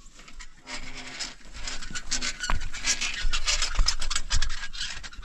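Rough scraping and rubbing: a quick, irregular run of short strokes.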